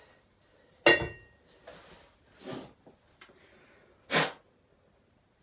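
A sharp metallic clink with a short ring, as of a steel plane blade being set down or knocked, then short breathy puffs of air about a second and a half apart, like someone blowing on the blade.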